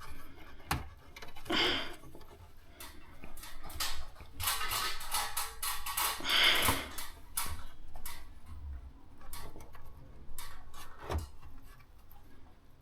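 Irregular clicks, knocks and scraping of parts and tools being handled, with two longer scratchy bursts about a second and a half in and again around six seconds in.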